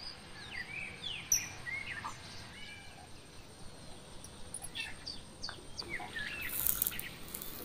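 Small birds chirping and calling, many short whistled notes that rise and fall, with a brief cluster of sharp clicks near the end.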